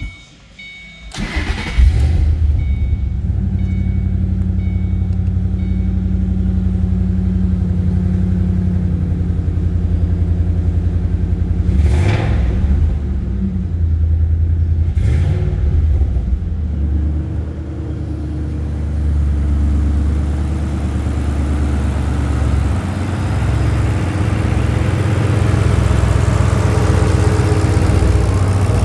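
Turbocharged 2006 Ford Mustang Saleen S281's V8 starting about a second and a half in, then idling steadily, with two short blips of the throttle about halfway through. A faint intermittent beep runs through the first few seconds.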